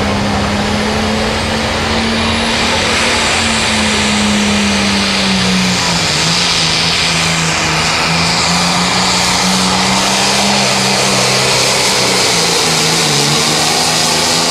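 Turbocharged diesel engine of a John Deere 4555 limited pro stock pulling tractor running at full throttle while it pulls the sled. The engine's steady pitch sags as the load builds, once about six seconds in and again near the end.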